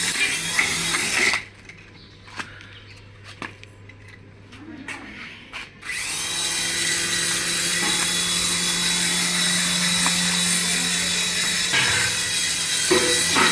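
A small electric motor in a radio-controlled toy whirring at a steady high speed. It cuts out about a second and a half in, stays off for about four and a half seconds, then starts again and runs steadily.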